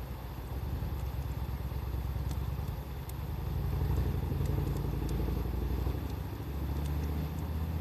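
Wood fire crackling with a few sparse pops, under a low rumble that swells and eases off over several seconds.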